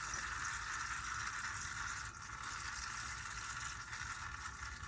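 Used engine oil trickling steadily out of the truck's oil pan drain hole into a catch pan, a soft liquid hiss with no separate drips.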